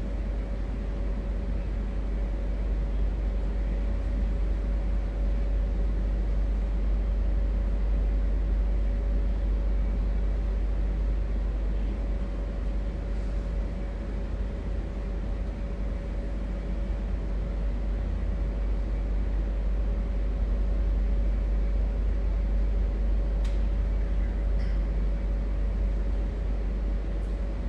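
Steady low rumble with a constant mid-pitched hum and a light hiss: the room's and sound system's background noise while the prayer goes on silently.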